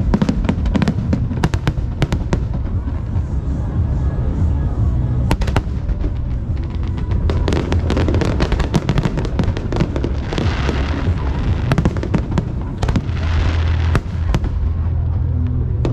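Aerial fireworks going off in quick succession: a dense run of bangs over a continuous low rumble, with crackling shells fizzing about ten and again about thirteen seconds in.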